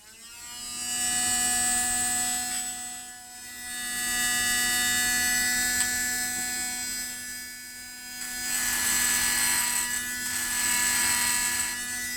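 Hot air gun blowing: a steady small-motor hum under a rushing of air that swells and fades three times.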